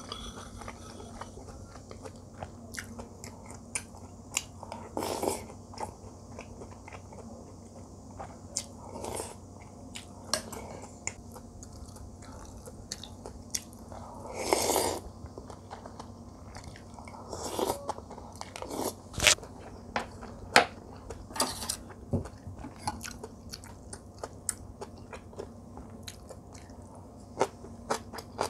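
Close-miked eating: a person chewing and crunching mouthfuls of food, a steady string of crisp clicks and bites with several longer, louder crunches scattered through.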